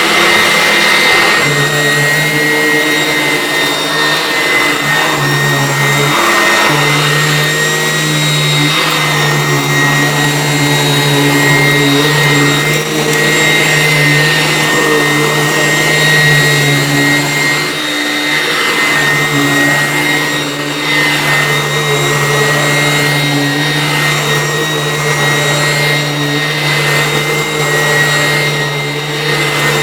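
Vacuum cleaner running steadily, with a constant hum and whine, its rushing air swelling and fading every couple of seconds.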